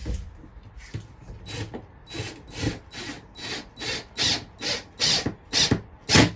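A hand or power tool worked in quick regular strokes, about two a second, getting louder towards the end.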